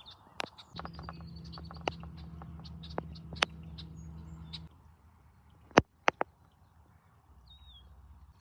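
Scattered clicks and light rustling of footsteps and handling, with a steady low hum through the first half that stops suddenly, two sharp clicks just past the middle, and a small bird chirping near the end.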